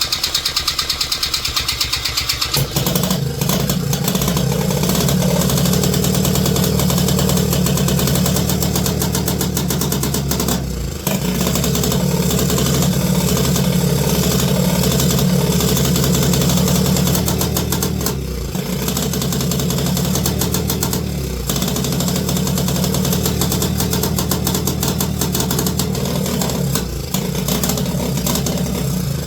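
Small engine running steadily after starting, with three brief dips in its sound. The engine has been hard to keep running, which the owner suspects is a carburettor issue.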